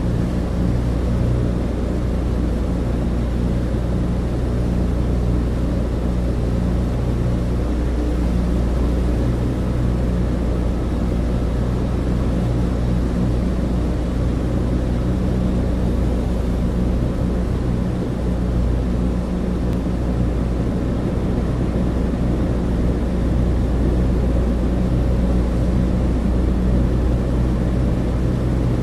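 Cabin interior of a Douglas DC-3 in flight: the steady low drone of its twin radial piston engines and propellers, with a hiss of airflow above it.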